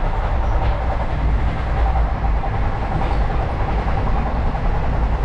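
Passenger train running along the track, heard from inside a coach: a steady rumble with faint wheel clatter.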